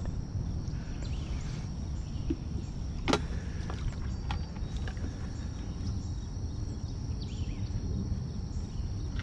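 Steady low outdoor rumble with one sharp knock about three seconds in and a few lighter clicks, typical of a bait bucket being handled at the creek's edge.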